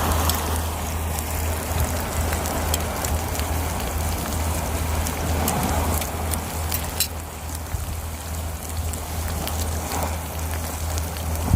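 Pork belly grilling on a stone slab over an oak-wood fire: a steady sizzling hiss with scattered sharp pops and crackles. A steady low rumble runs underneath.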